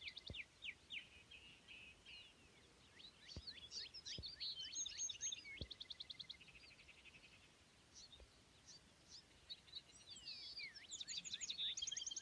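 Songbirds calling faintly: many short high chirps and downward-sliding notes, with rapid buzzy trills at times.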